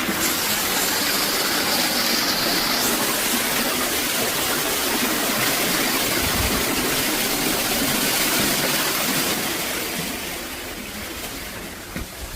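Water gushing steadily out of an overflowing toilet, a sign of storm water backing up through the sewer. The rush eases off about ten seconds in.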